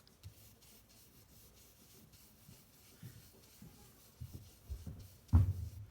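Small ink blending brush rubbing softly on the torn edges of cardstock to age them, with faint scattered knocks. A single sharper thump comes near the end and is the loudest sound.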